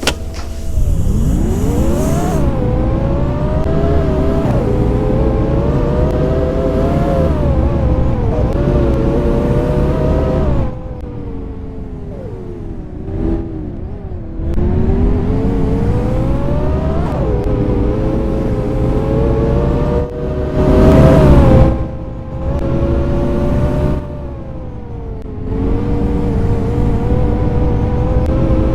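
Scania K230UB city bus, its five-cylinder diesel and Voith automatic gearbox heard from on board, pulling away and accelerating with engine pitch rising repeatedly through the gears. Twice the engine eases off and drops in pitch before picking up again, and about two-thirds through there is a brief loud whooshing burst.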